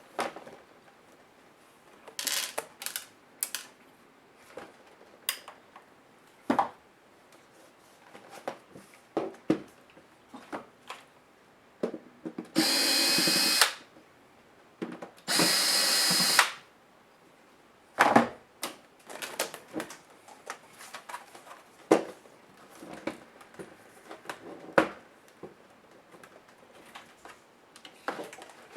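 A small electric screwdriver running in two short bursts of about a second each, around halfway through, backing out laptop case screws. Scattered clicks and taps of screws and plastic parts being handled come before and after.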